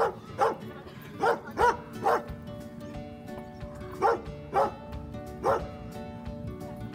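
A dog barking repeatedly in short, sharp barks, about nine in all, with a pause near the middle.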